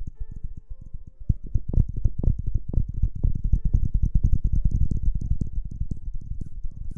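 Fingers rubbing and scratching close on a microphone, ASMR hair-washing style: a dense run of quick soft taps and scrapes that grows louder toward the middle.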